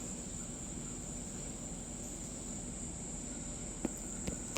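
Evening insect chorus, a steady high-pitched trill without a break, with two faint clicks near the end.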